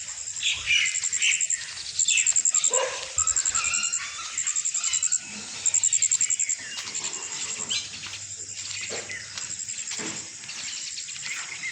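Birds chirping and calling in the open, over a very high, rapid trill that repeats in short bursts about once a second.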